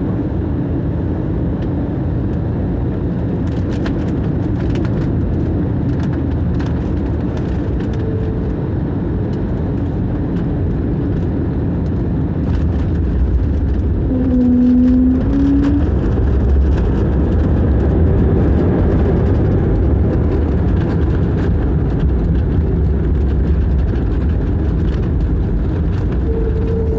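Airliner landing: a steady low rumble of engines and airflow that grows louder about halfway through, with light rattling.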